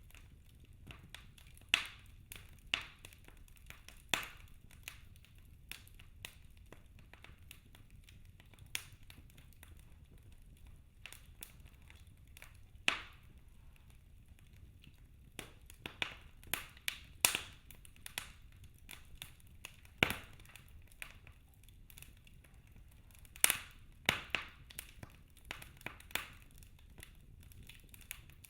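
Wood fire burning in a fireplace: logs crackling with irregular sharp pops and snaps over a low steady hiss, several loud cracks among the smaller ones.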